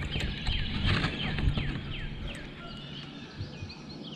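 A bird calling in a quick series of short, high, falling whistles, about three a second.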